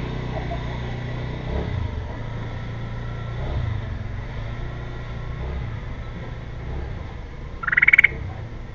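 A steady low engine-like rumble of nearby traffic, with one short, loud, rapidly pulsed bird call near the end.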